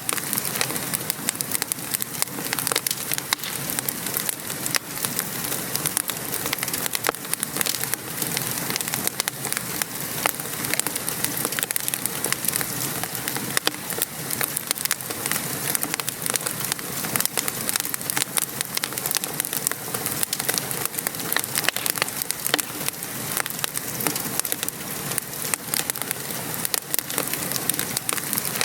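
Steady rain pattering, mixed with a wood fire crackling in a fireplace: a dense even hiss with many small sharp pops scattered throughout.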